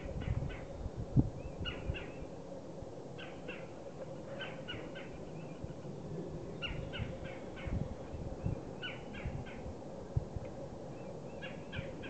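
A bird calling in short clusters of three or four quick notes, repeated every second or two. Under the calls are a few low bumps, the loudest about a second in.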